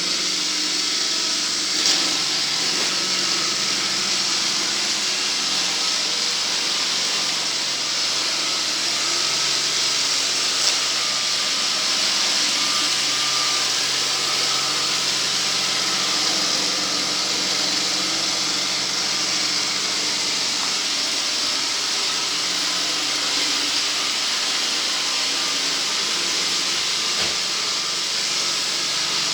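Vacuum cleaner running steadily with a strong airy hiss over a low motor hum, with a couple of faint clicks.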